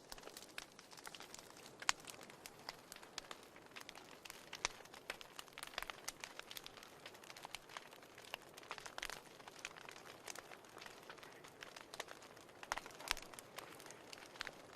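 Wood fire in a fireplace crackling, with frequent irregular pops and snaps over a soft steady hiss of the flames.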